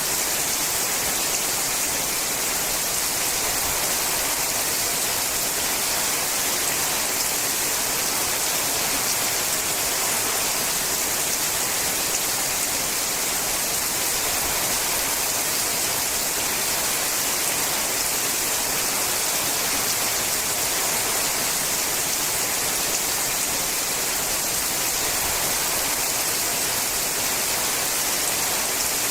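Steady rain falling on a sheet-metal roof, an even, unbroken hiss.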